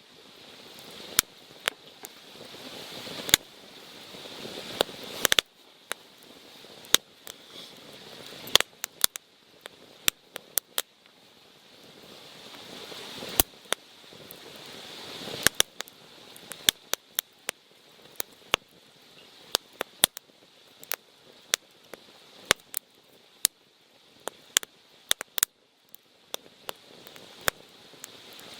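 Wood campfire crackling, with many sharp irregular pops and snaps over a hiss of flame that twice swells slowly and then drops off suddenly.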